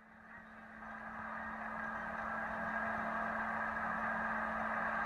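Steady road and engine noise of a moving car, picked up by a dashcam. It fades in over about the first second, with a faint steady hum under it.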